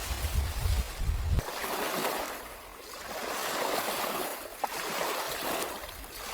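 Water washing and splashing in repeated swells, roughly every second and a half. A deep wind rumble on the microphone runs through the first second or so and then stops.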